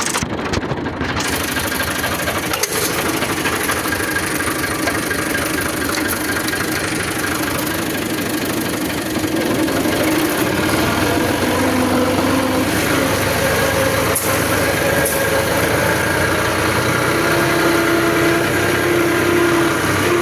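Tractor engine running hard and continuously; its note becomes steadier and a little louder about halfway through.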